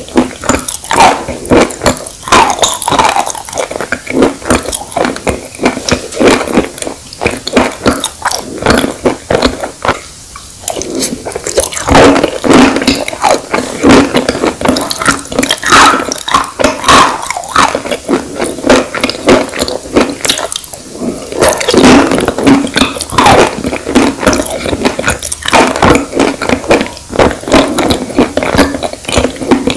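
Chalk crumbles chewed right at a clip-on microphone: a dense, irregular run of crunches and crackles, easing briefly twice.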